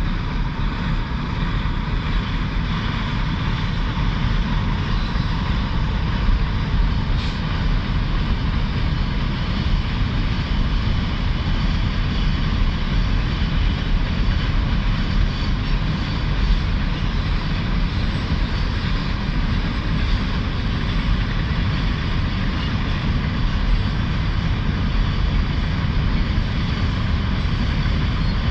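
CN manifest freight train passing over a bridge: a steady, unbroken rumble of wheels on rail, with faint steady ringing tones above it.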